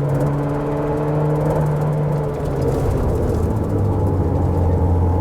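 Car engine running steadily under way, with tyre and road noise. About two and a half seconds in, the engine note drops to a lower steady pitch.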